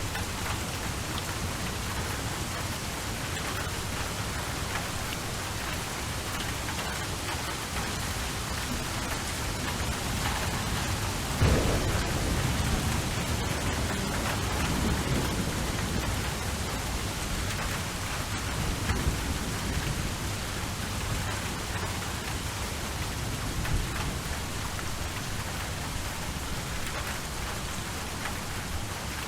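Steady rain falling, with a roll of thunder that starts suddenly about a third of the way in and rumbles on for several seconds.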